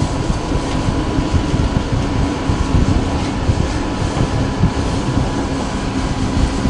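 Cabin sound of an electric passenger train running at speed: a steady rumble of wheels on the track, with a thin constant tone through it.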